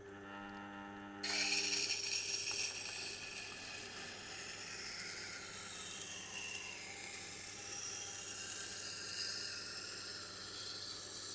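Tormek T8 wet grinder's motor humming, then a nakiri knife edge is put to the turning SG-250 stone wheel about a second in and grinds with a steady scraping hiss. The grinding is smooth, with little left of the crunching that raised grains make hitting the edge: the coarse surface dressed into the wheel with the 80-grit plate has worn down.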